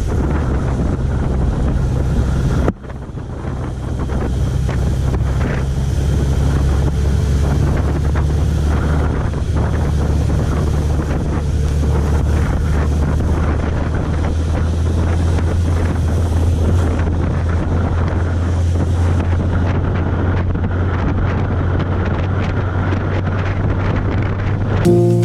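Motorcycle riding noise: a 1991 Suzuki GSX1100F's inline-four engine running at a steady cruise under heavy wind rush on the microphone. The sound cuts out and resumes about three seconds in.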